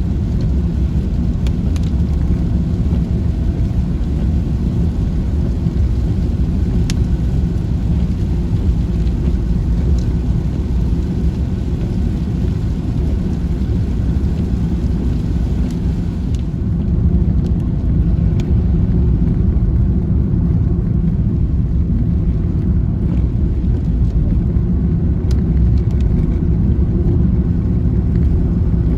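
Steady low rumble of a vehicle travelling along a road, engine and road noise with a few faint clicks.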